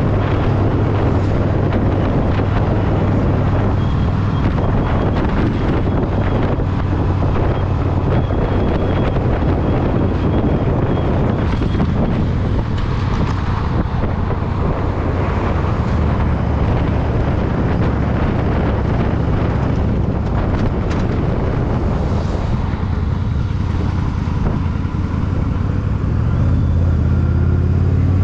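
Yamaha V-Star 1100's air-cooled V-twin engine running steadily under way, with a constant rush of wind noise over it. The engine note grows stronger near the end.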